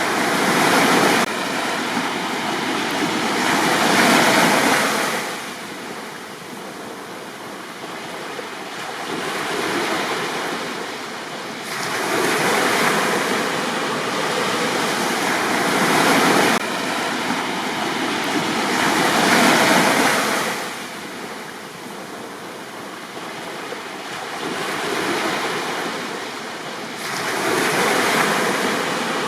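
Sea waves breaking on a beach and washing back. The surf swells and fades in repeated surges every few seconds.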